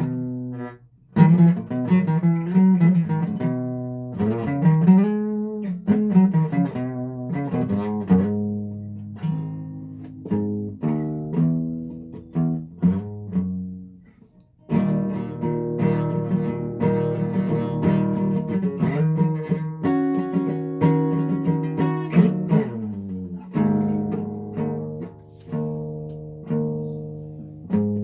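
Guitar being played solo: picked single notes and chords with bent notes and slides, pausing briefly twice.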